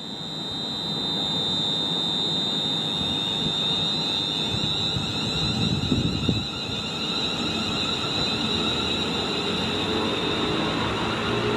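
A train running through the station, a steady high-pitched whine over rumbling wheel and track noise, with a brief louder surge about six seconds in.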